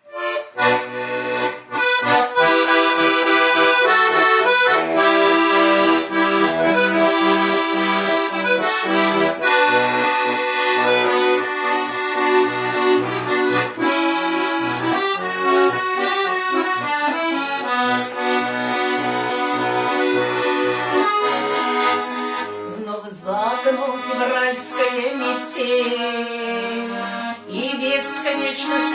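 Accordion playing the instrumental introduction of a song: a melody over a steady, regular bass-and-chord accompaniment. It is fuller for most of the passage, then thins and turns a little quieter in the last several seconds.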